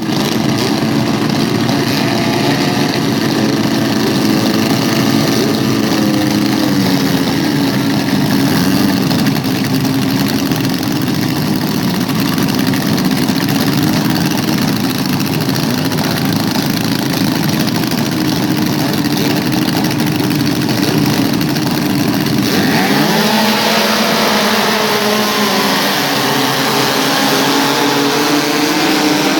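Outboard motors of racing tunnel boats running at speed, several engine notes wavering up and down in pitch. The sound changes abruptly about 23 seconds in.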